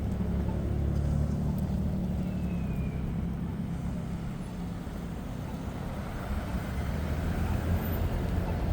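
Road traffic on a snowy city street: a steady low rumble of passing cars that swells about a second in and again near the end.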